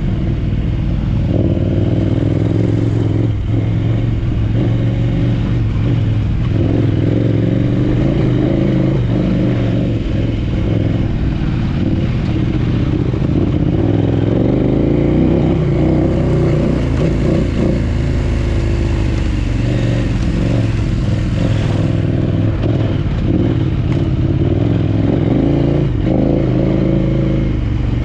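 Big adventure motorcycle engine running while riding off-road, its pitch rising and falling with the throttle over a steady low rumble.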